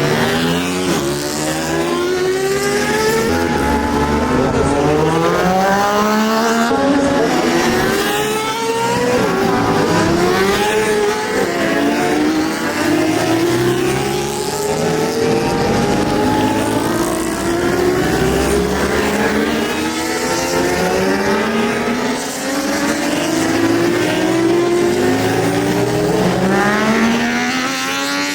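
Superbike engines at racing revs, several overlapping, each climbing in pitch and dropping back again and again as the bikes accelerate up through the gears.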